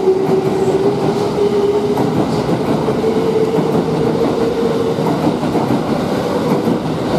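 Red Kintetsu electric commuter train running out along the platform, a steady rumble and clatter of wheels on the rails with a motor whine that climbs slowly in pitch as it gathers speed.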